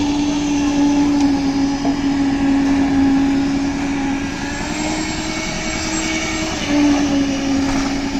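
Construction machinery at a concrete slab pour running steadily, with a loud, even hum that shifts slightly in pitch a couple of times, over general site noise.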